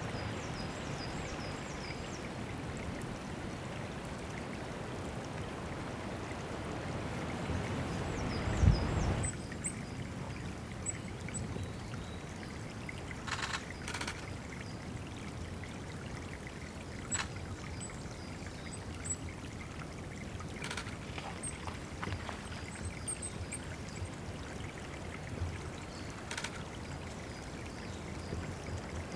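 Water trickling and splashing at a woodland bird water spot, with thin, high small-bird calls and short trills over it. The water sound drops sharply to a quieter trickle about nine seconds in, and a few sharp ticks follow.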